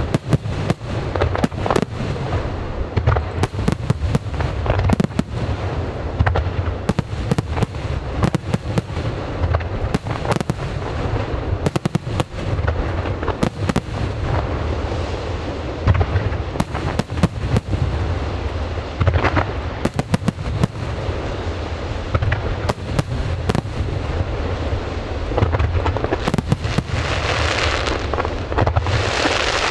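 Aerial fireworks going off continuously: many sharp bangs over a dense crackle of bursting shells, with a hissing surge near the end.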